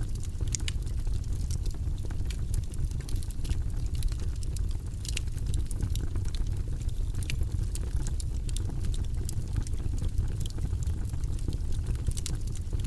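Log fire burning in a fireplace: a steady low rumble of the flames with irregular sharp crackles and pops from the burning wood.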